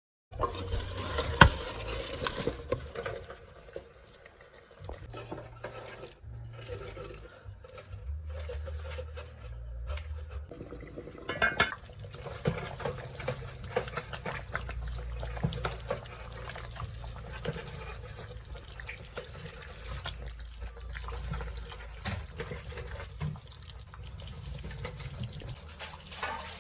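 Kitchen sounds of water running and splashing at a sink, with scattered clinks and knocks from handling.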